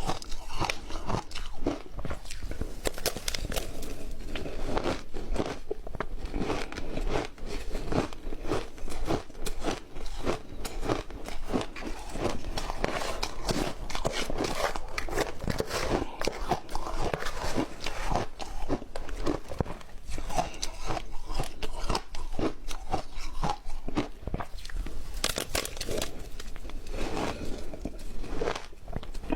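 A person crunching and chewing ice close to the microphone: a dense, continuous run of sharp cracks and crackles as the ice breaks between the teeth.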